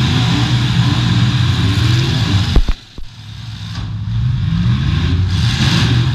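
Demolition derby cars' V8 engines revving hard all together. A loud crash about two and a half seconds in, after which the sound briefly drops away and builds back up.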